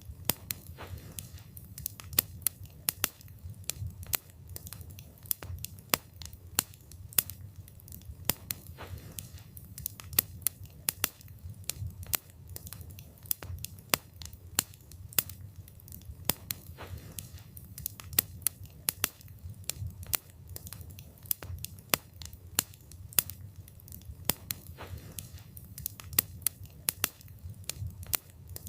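Wood fire crackling, with frequent sharp snaps and occasional louder pops from the burning wood, over a steady low rumble of the flames.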